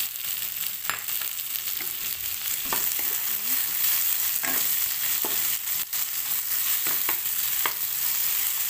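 Onion, red chili and freshly added tomato slices sizzling in oil in a non-stick pan, stirred with a wooden spatula. A steady hiss runs throughout, with a few sharp scrapes and knocks of the spatula against the pan.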